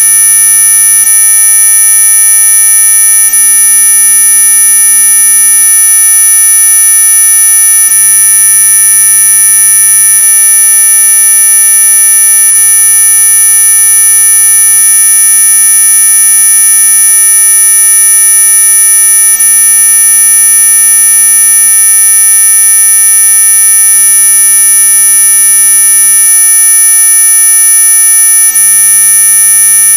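Electronic anti-mosquito repellent tone: a loud, unchanging high-pitched whine made of several steady pitches sounding together, the shrillest very high but others well within hearing.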